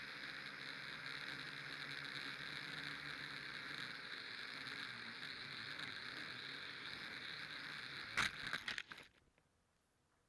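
Radio-controlled model aircraft's electric motor running with a steady whine. Just after eight seconds in there are a few sharp knocks, and then the motor sound cuts off.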